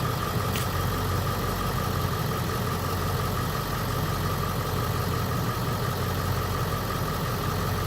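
Ford 7.3-litre Power Stroke V8 turbo diesel in a 2002 F-250 idling steadily.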